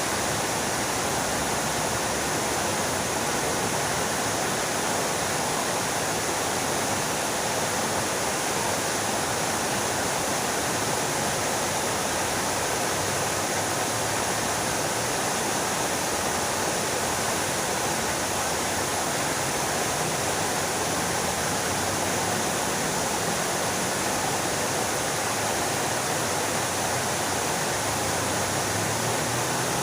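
Fountain water splashing steadily down into its pool.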